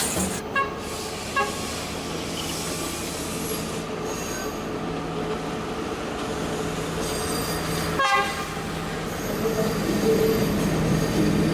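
Passenger train running on its rails, a steady rumble and hum, with a brief sharp metallic noise about eight seconds in.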